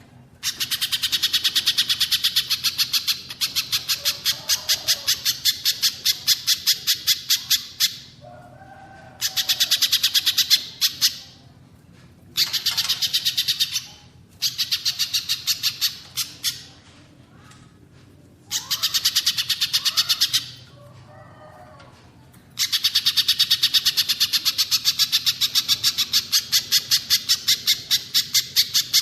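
Recorded songbird calls: long trains of rapid, sharp repeated notes in bouts of a few seconds with short pauses, and softer lower notes in the gaps.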